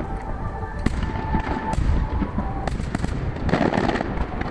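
Aerial firework shells bursting in quick succession, heard from far off: continuous low booming and rolling echoes with many sharp cracks over it, thickest a little before the end.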